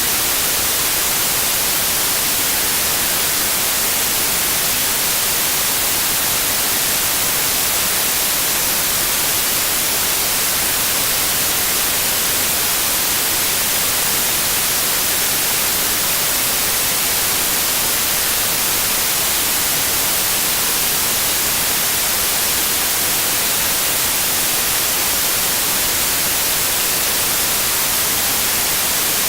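Steady synthesized white noise: an even, unchanging hiss, strongest in the high end.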